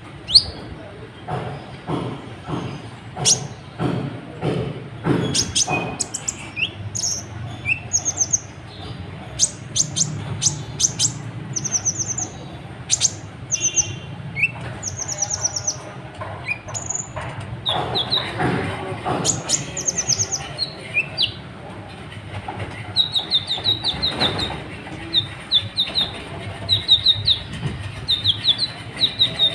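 Kolibri ninja, a sunbird, calling without pause: sharp ticking chips in the first few seconds, then scattered short high notes and slurs, and a fast run of quickly repeated chattering notes over the last several seconds.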